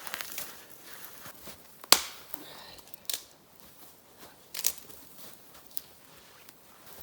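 Spruce branches being snapped and broken off, with crackling and rustling between the breaks; the loudest sharp crack comes about two seconds in, followed by a few smaller snaps.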